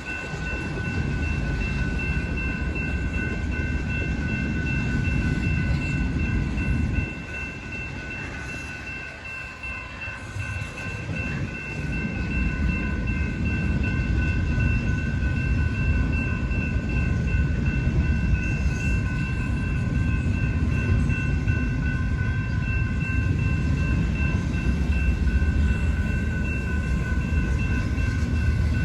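Intermodal freight train rolling past with a steady low rumble of wheels on rail, easing for a few seconds about seven seconds in, then building again. A steady high-pitched whine sits over it the whole time.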